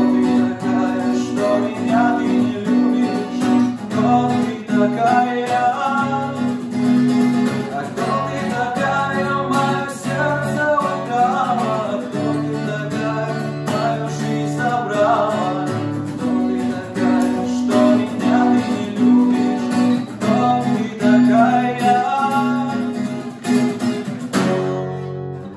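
Acoustic guitar music, strummed and plucked, with a melody moving over held bass notes; it stops near the end.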